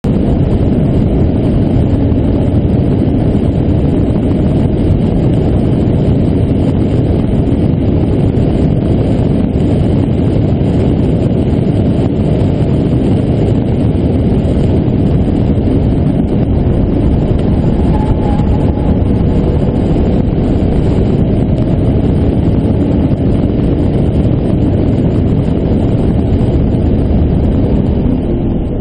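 BMW E36 328i's straight-six engine running hard at speed, heard from inside the cabin with heavy wind and road noise. Loudness drops near the end as the car slows.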